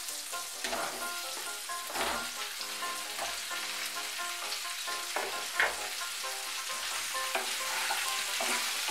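Pumpkin, potato and pointed gourd pieces frying in hot mustard oil in a kadai, with a steady sizzle. Several sharp knocks come through as the pumpkin chunks are tipped in and a spatula stirs the pan.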